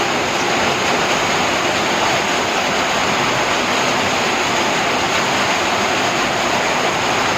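Heavy rain and rushing water: a loud, steady, even rush with no breaks.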